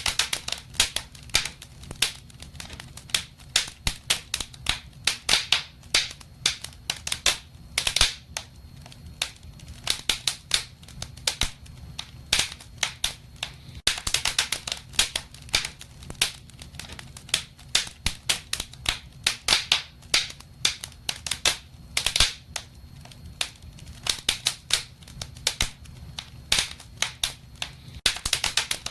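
Wood fire crackling in a fireplace: dense, irregular sharp pops and snaps over a low steady rumble.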